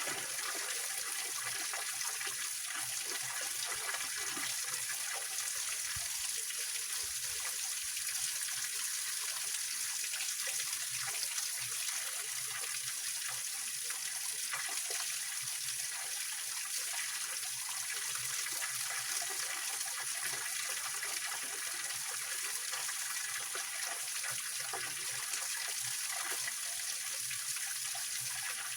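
Small waterfall and stream water splashing and trickling over rocks, a steady hiss with no change.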